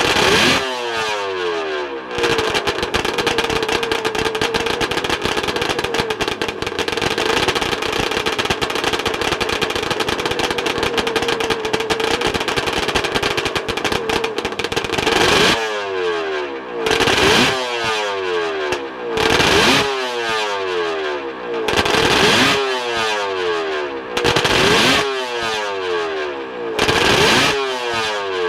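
Suzuki-based 750 two-stroke triple race engine held at steady high revs for about thirteen seconds, then blipped again and again, each rev dropping quickly back down.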